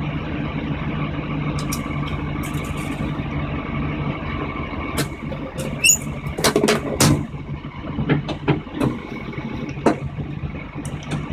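1973 VW Beetle's air-cooled flat-four engine running at a steady pace while driving, heard inside the bare, stripped cabin. A scatter of sharp knocks and rattles comes between about six and ten seconds in.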